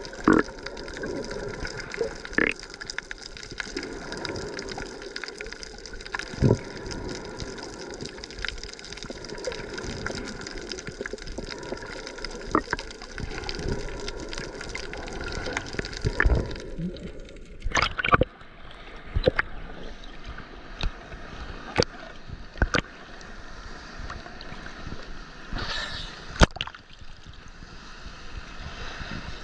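Düden Waterfall's falling water rushing steadily, with scattered sharp clicks and an abrupt change in the sound about 17 seconds in.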